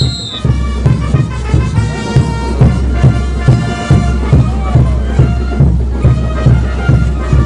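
Brass band playing Diablada dance music, with a steady, quick bass drum beat under the horns.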